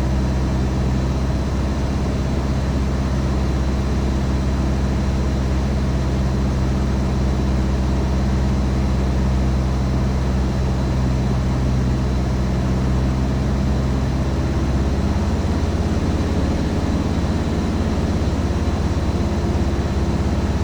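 Cessna 150's four-cylinder Continental O-200 engine and propeller droning steadily in flight, heard from inside the cabin. The engine note changes about fifteen seconds in.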